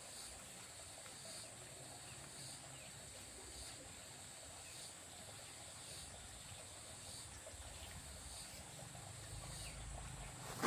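Faint rural outdoor ambience with insects droning steadily at a high pitch and a faint chirp pulsing about once a second. A sharp knock at the very end.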